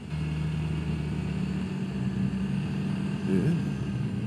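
Suzuki Burgman 650 maxi-scooter's engine running steadily while riding at speed, a constant drone with road and wind noise.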